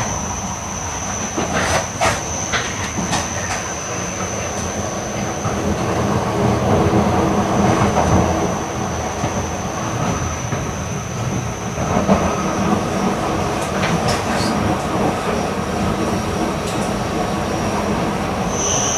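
Running sound inside an E8 series Shinkansen car at speed: a steady low rumble of wheels on rail with a steady high whine above it. A few sharp clicks of the wheels crossing rail joints come about two and three seconds in and again around fourteen seconds.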